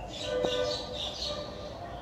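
Small birds chirping, a quick run of high chirps in the first second and a half.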